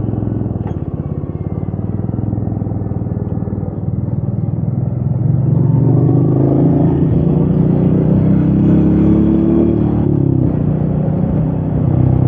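Royal Enfield Meteor 350's single-cylinder engine pulling under way, heard from the rider's seat. It is quieter for a few seconds, then opens up and gets louder about halfway through, with the pitch creeping upward. It eases briefly near the end.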